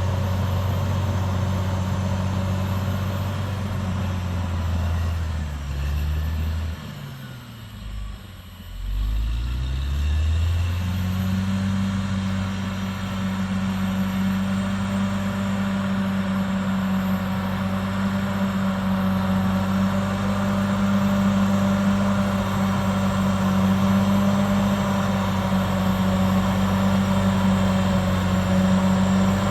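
Caterpillar D6R XL bulldozer's diesel engine running. About six seconds in the revs drop away to a low idle, then about ten seconds in it revs back up and runs steadily at high revs.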